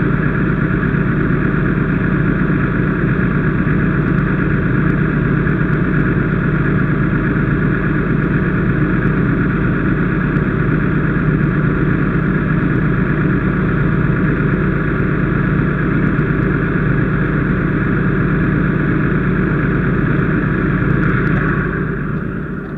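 An engine running steadily at a constant speed, fading down near the end.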